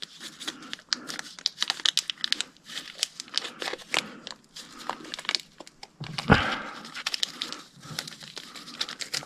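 Crinkling and rustling with many small clicks, from handling the packet of small tension springs and getting them out. There is one heavier thump about six seconds in.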